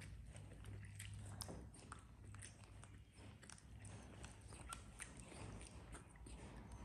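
Faint eating sounds: chewing and biting on soft fresh spring rolls, with scattered small clicks and taps.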